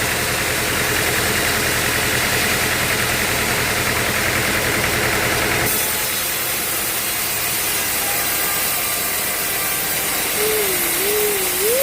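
Engine-driven sawmill machinery running steadily. About halfway through the noise changes abruptly to a different steady machine sound, and near the end a wavering tone rises and falls over it.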